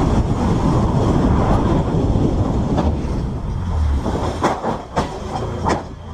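A loud, steady rumble of a heavy vehicle rolling by, with several sharp knocks in the last two seconds.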